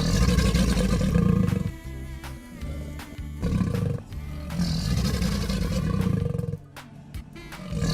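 A loud roar of a monster-like creature over background music, with a quieter stretch near the end.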